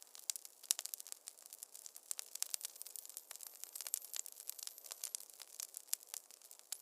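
Wood fire in a fireplace crackling: a dense, irregular run of small sharp snaps and pops, several each second, with no low rumble underneath.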